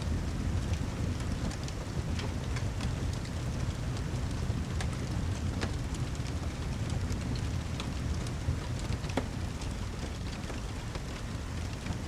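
Rain-and-fireplace ambience: a steady wash of heavy rain over a deep, constant low rumble, dotted with scattered sharp crackles and ticks.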